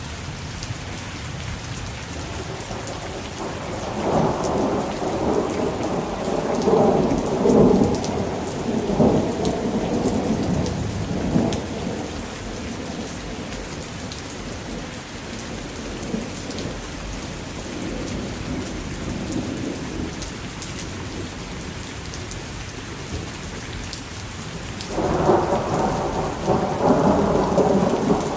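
Heavy rain falling steadily, with thunder rolling through twice: a long rumble about four seconds in that fades after several seconds, and another starting near the end.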